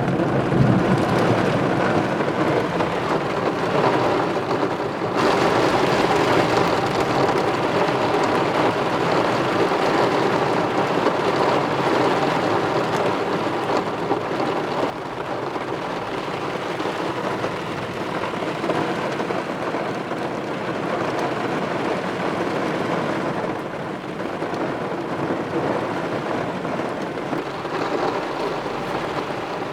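Heavy rain pouring down in a violent thunderstorm, with strong wind, as a dense steady rush. The sound shifts abruptly about five and fifteen seconds in.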